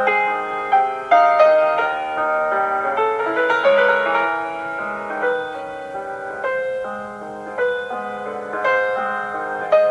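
Solo piano playing a slow, tender classical-style piece, notes struck and left to ring over a held low note.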